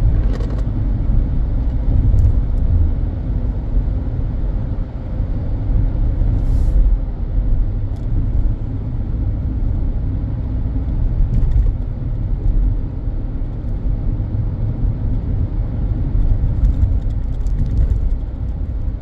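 Car driving over a bumpy road, heard from inside the cabin: a steady low rumble of road and engine noise, with a few sharp knocks from the bumps.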